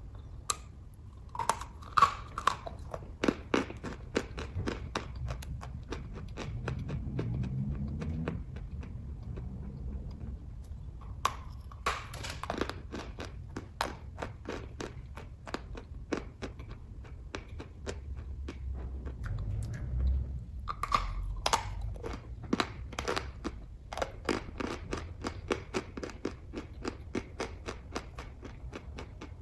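Close-up chewing of kaju katli (cashew fudge): wet mouth clicks and smacks at about three to four a second, coming in three spells, with quieter gaps between them.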